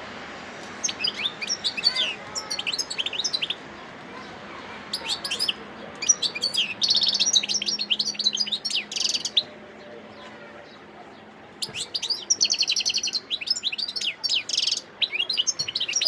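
A wild-caught European goldfinch singing: three phrases of rapid high twittering, the second and third each holding a fast buzzy trill, separated by short pauses.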